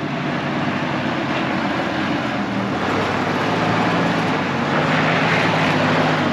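Off-road truck's engine running under load, revs held fairly steady, as it crawls up a rocky trail obstacle; the sound swells over the first second and stays loud.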